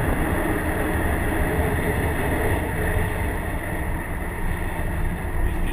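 Inside the cabin of a 2011 Subaru WRX at speed on a wet track: the turbocharged 2.5-litre EJ255 flat-four running steadily, mixed with tyre and road noise.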